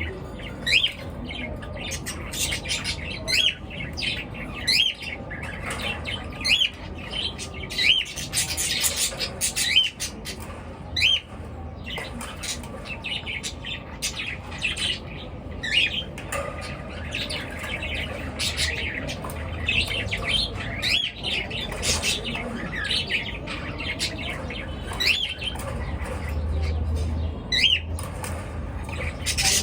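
A group of small pet birds chirping and twittering continuously, many short rising chirps overlapping one another, with a low steady hum underneath.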